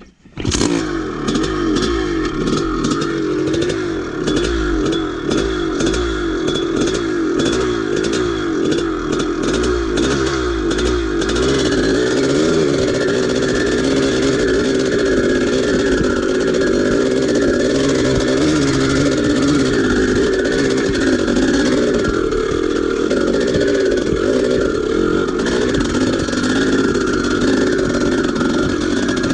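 1983 Maico 490's single-cylinder two-stroke engine running under load as the dirt bike is ridden up a hill, its revs rising and falling. It comes in suddenly about half a second in, with clattering over roughly the first ten seconds.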